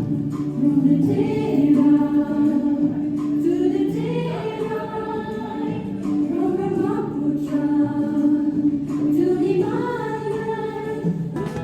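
A choir singing a slow, hymn-like song in unison, holding long notes and gliding between them.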